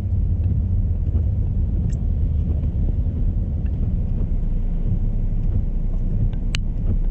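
Steady low rumble of a car driving on a winter road, heard from inside the cabin, with a faint click or two, the sharpest near the end.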